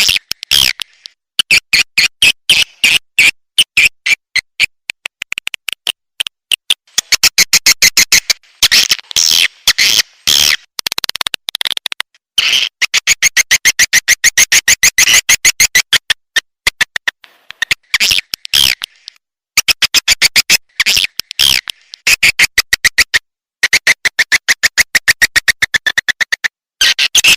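Recorded swiftlet calls played as a house-swiftlet lure track: loud, rapid trains of high chirping clicks in runs of a second or two, broken by short gaps.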